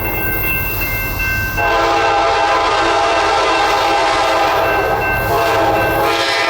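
Freight locomotive air horn blowing a long chord, loudest from about a second and a half in, with a brief dip near the end, over the low rumble of the passing train.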